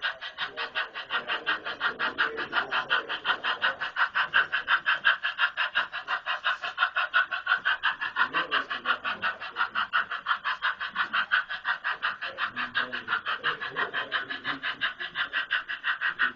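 Model steam locomotive chuffing steadily, about five even chuffs a second.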